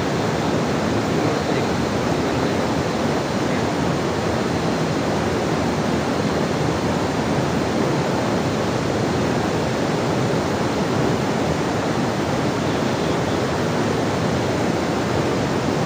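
Steady rushing water, an even and unbroken noise with no change in level.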